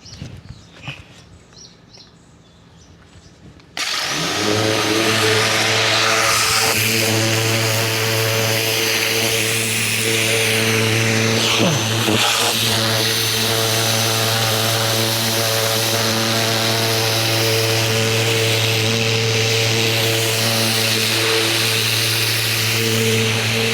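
Ryobi 2000 PSI electric pressure washer kicking on abruptly about four seconds in, then running steadily: a constant motor-and-pump hum under the hiss of the water spray.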